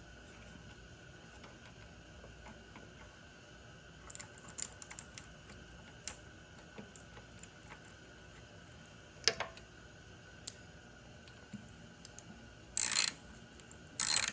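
Scattered small clicks and taps of hardware being handled during fitting of a motorcycle gas tank mount and its bolt. Two louder rattling bursts come near the end.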